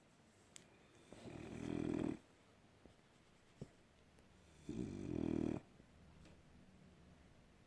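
A sleeping French bulldog snoring: two snores, each about a second long and about three and a half seconds apart, the first building up in loudness. Faint breathing and a few small ticks come between them.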